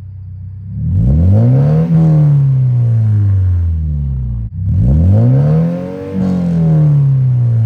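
Subaru BRZ's flat-four boxer engine revved twice through an unbranded aftermarket exhaust: each rev climbs in pitch for about a second, then winds slowly back down, with a brief break between the two.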